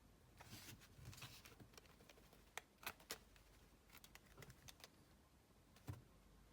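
Near silence with faint, scattered light clicks and short rustles, a few sharper clicks among them.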